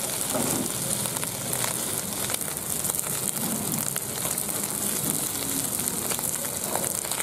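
Small river eels frying in oil in a wok: a steady sizzle with scattered crackles and pops.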